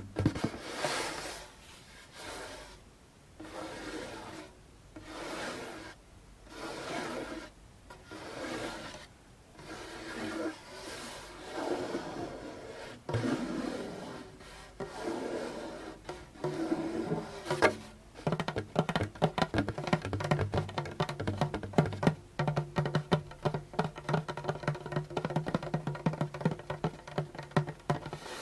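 Djembe head rubbed in slow sweeping strokes, one swell about every one and a half to two seconds. About 18 seconds in, this changes to rapid fingertip tapping on the drum, several light taps a second.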